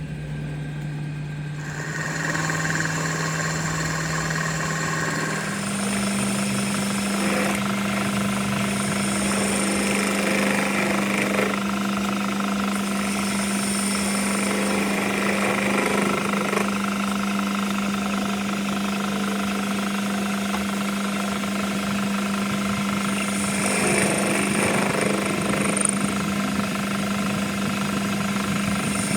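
A workshop machine running steadily with a constant hum that steps up to a higher pitch about five seconds in, with rougher noise swelling at times over it.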